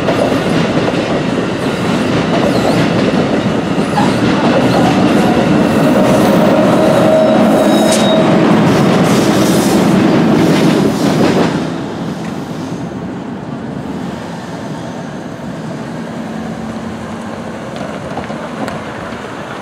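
NJ Transit Multilevel coach train passing close by, its wheels clattering over the rails. The sound cuts off sharply about eleven and a half seconds in as the last car clears, leaving quieter road traffic noise.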